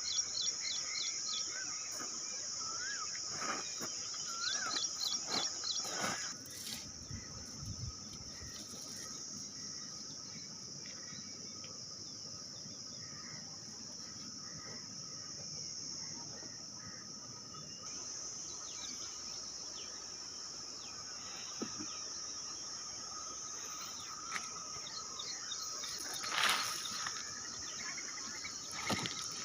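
Rainforest insect chorus keeping up a steady high-pitched drone and a lower steady trill, with birds chirping in quick series and a few short upward whistles in the first few seconds. A few sharp knocks break in, the loudest near the end.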